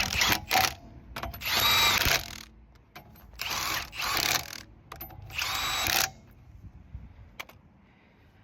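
Impact wrench (impact gun) running in several short bursts as it tightens the wheel bolts, stopping about six seconds in.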